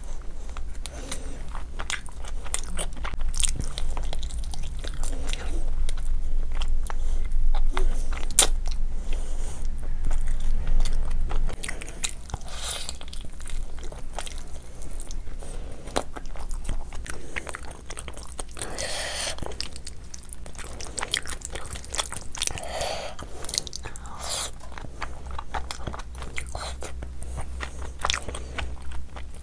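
A person chewing and biting food, with many sharp wet mouth clicks. A low steady hum lies underneath and drops away about twelve seconds in.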